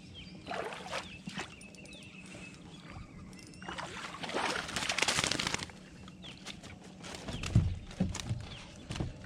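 Handling sounds on a fishing kayak: scattered small clicks, a rush of water sloshing or splashing for about two seconds mid-way, then several low knocks against the hull near the end.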